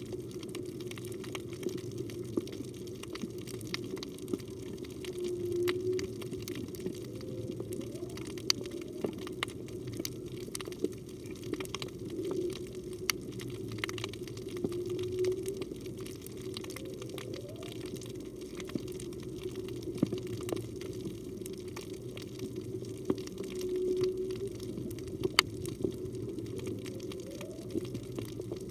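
Whale song heard underwater: short pitched calls, some rising and some held, recurring every few seconds. The recordist takes them for a humpback whale. Scattered sharp clicks sound through a steady underwater wash.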